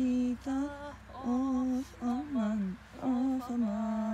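A woman singing an Albanian folk song unaccompanied, in a slow melody of long held notes broken by short pauses between phrases.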